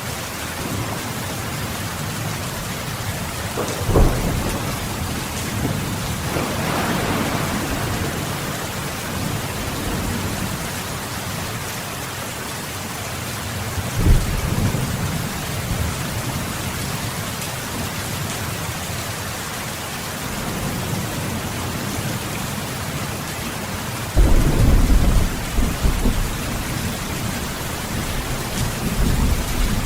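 Steady heavy rain with thunder: a sharp clap about four seconds in, another about fourteen seconds in, and a longer rolling rumble near the end.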